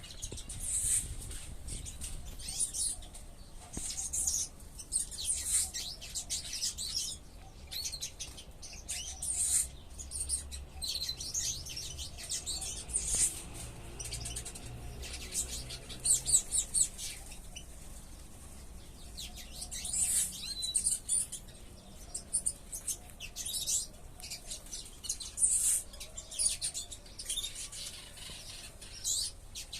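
Many small ornamental aviary birds chirping, with frequent short, high-pitched calls overlapping, over a low steady rumble.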